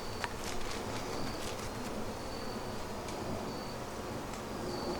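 Honeybees buzzing around an open hive during an inspection, a steady hum, with a few faint clicks.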